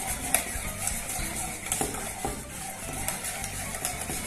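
Wire whisk stirring and scraping in an enamel saucepan, with irregular light metallic ticks as it knocks the sides and bottom. It is beating the lumps of cornstarch out of a cold orange custard mixture.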